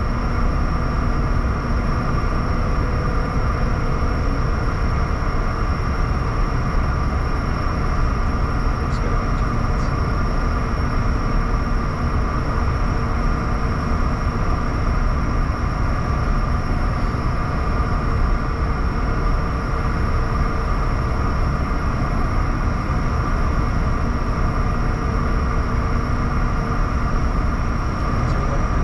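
Bombardier Challenger 350 business jet running: a steady low rumble with several steady whine tones above it, unchanged throughout.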